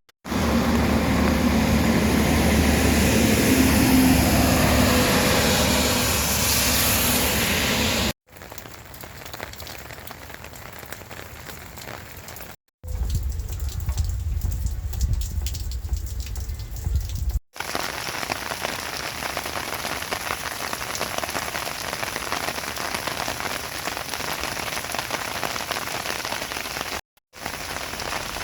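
Rain falling steadily, in several short takes split by abrupt cuts. The first take is louder, with a low hum under the rain, and a middle take has a deep low rumble beneath it.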